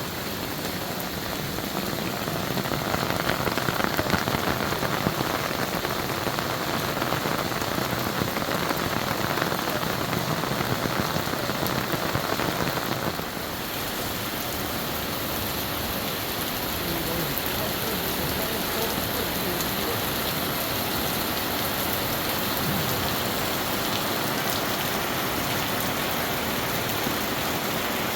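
Steady heavy rain falling and splashing on hard surfaces, a continuous hiss. It is louder for the first half and drops suddenly about halfway through.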